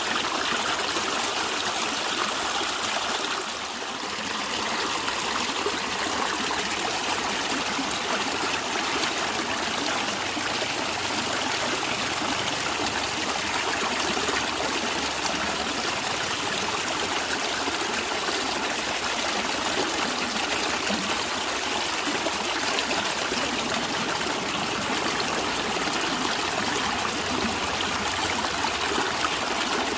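A natural stream running and gurgling steadily, dipping briefly about four seconds in.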